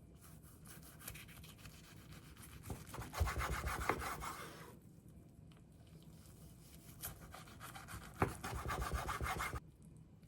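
Scraping and rubbing in two spells of a few seconds each, with a few sharp knocks; the second spell stops abruptly near the end.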